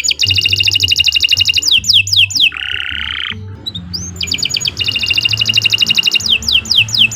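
Domestic canary singing: a very fast rolled trill, a lower buzzy phrase, another fast trill, then a run of quick downward-sweeping whistled notes near the end.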